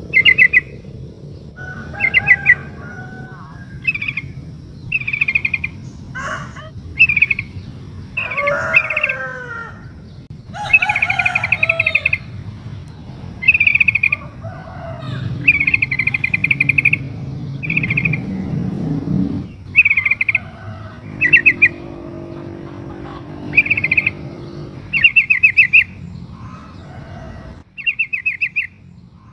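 Yellow-vented bulbul (trucukan) calling: short bursts of rapid bubbly trills repeated every second or two, with lower chattering notes between them. It is offered as a female's call to a male.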